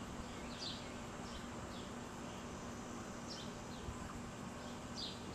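Short, high bird chirps, each sliding downward, come every second or so over a steady faint low hum.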